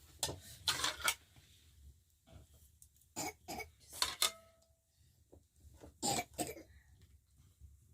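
Scattered clinks and knocks of dishes and cutlery being handled, a few of them ringing briefly.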